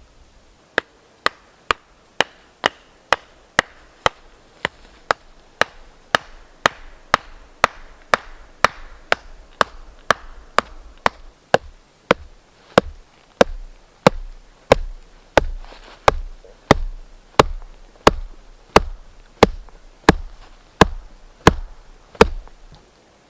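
Axe chopping wood in a steady rhythm, about two sharp strikes a second, the blows landing heavier in the second half.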